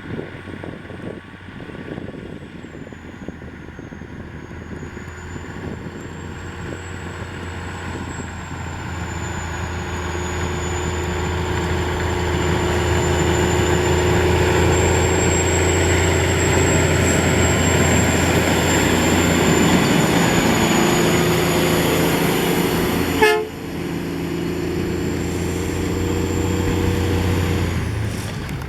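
Western Star 6x6 plow truck's diesel engine running under load with a steady drone and a broad rushing noise, growing louder over the first dozen seconds as it comes closer, then holding. About 23 s in there is a sharp click and a sudden dip before it carries on, and it cuts off abruptly near the end.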